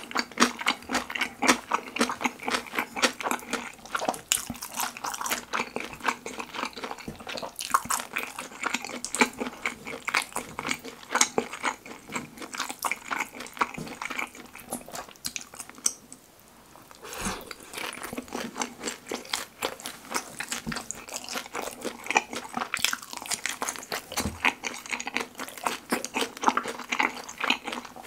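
Close-miked chewing of kimchi-pizza sweet-and-sour pork (battered fried pork with kimchi and melted cheese): a dense run of clicking, sticky mouth sounds, with a short lull just past halfway.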